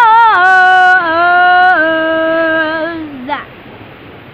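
A girl's voice holding one long sung-out note, stepping down in pitch twice and breaking off about three seconds in. After it, only the steady rush of water flowing through the rain catcher.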